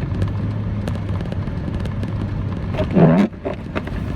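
Pickup truck's engine and road noise heard from inside the cab, a steady low drone, with a short voice sound about three seconds in.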